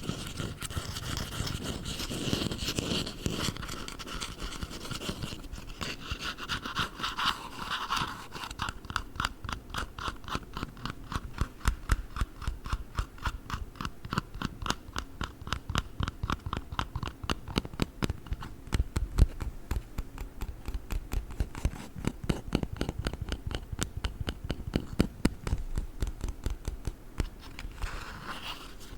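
Squishy dumpling toys handled close to the microphone, with scratchy rustling at first and then, from about eight seconds in, a fast, steady run of small crackling clicks.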